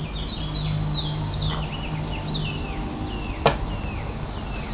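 A small bird chirping over and over, short calls that each fall in pitch, over a steady low hum. A single sharp click about three and a half seconds in.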